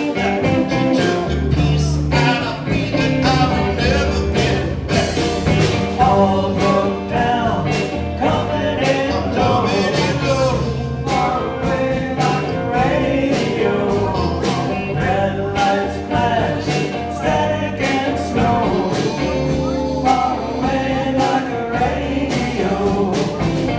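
A band playing a song live, with a lead vocal over guitar, bass and drums.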